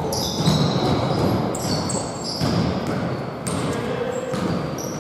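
Basketball game play on an indoor court: a ball bouncing and many short, high sneaker squeaks on the floor.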